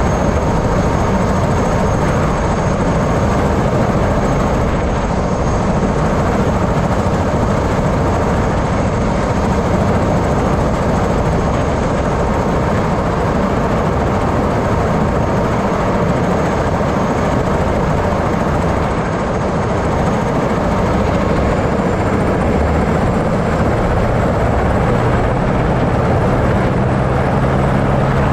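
Helicopter engine and rotor running steadily, with a thin high whine that rises slightly about 21 seconds in and a deeper hum joining near the end.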